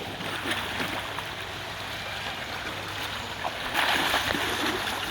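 Water splashing and sloshing around elephants being bathed, a steady rushing wash that grows louder for a moment about four seconds in.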